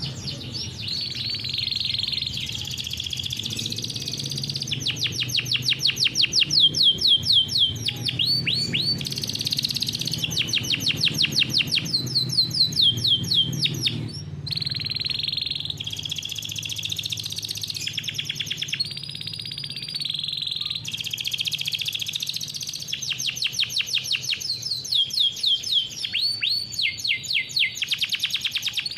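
Domestic canary singing a long, continuous rolling song: fast runs of repeated notes, many of them quick downward sweeps, alternating with steady trills, with hardly a pause.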